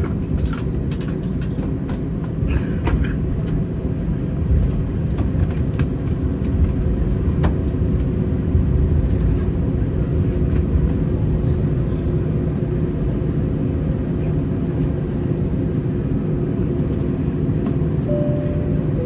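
Steady low rumble and hum inside an Airbus A319's cabin with the CFM56 engines still running, on arrival at the stand. Scattered sharp clicks sound in the first few seconds, and a short higher tone comes near the end.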